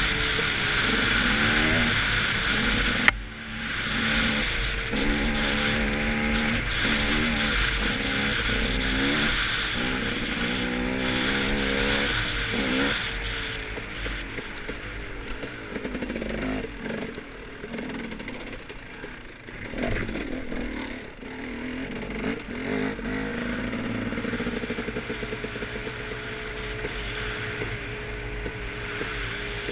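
Dirt bike engine revving up and down in quick surges as it is ridden along a woods trail, with a sharp knock about three seconds in. In the second half it settles into lower, steadier running.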